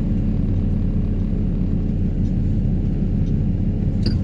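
Heavy excavator carrying a vibro hammer for sheet-pile pulling, its diesel engine running with a steady low drone.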